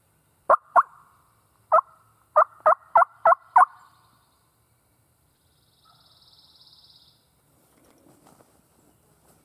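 Turkey yelps, most likely from a hunter's turkey call imitating a hen: seven loud, sharp notes, two and then, after a short pause, five more evenly spaced at about three a second. Later there is a faint buzz and some soft rustling.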